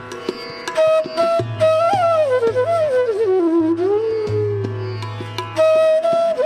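Indian classical-style background music: a flute melody with gliding notes over plucked strings and a steady low drone.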